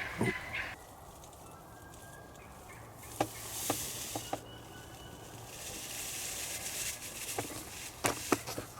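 Turkey calls for the first moment, then quiet outdoor background with a few faint clicks and rustles.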